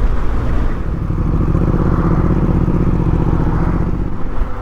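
BMW R1250GS boxer-twin engine running while riding along the road, with wind and road noise. The engine note grows stronger and steadier about a second in.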